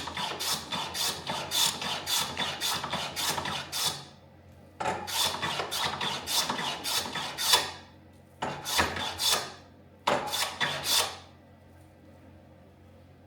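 Hand plane shaving the ebony front splice of a snooker cue in quick rasping strokes, about three a second. The strokes come in four runs with short pauses between them and stop about 11 seconds in.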